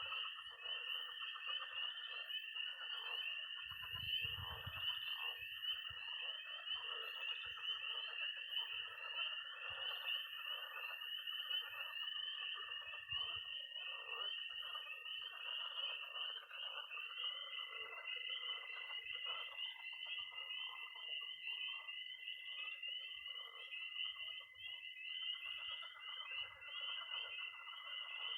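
Night chorus of frogs and toads. Spring peepers call in a dense high chorus, and a toad gives a long, steady, high-pitched trill that is taken over about halfway through by another trill at a slightly higher pitch. Frogs croak lower down.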